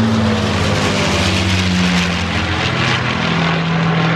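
Avro Lancaster bomber's four Rolls-Royce Merlin piston engines running as it flies past, the engine note sliding gradually lower in pitch as it goes by.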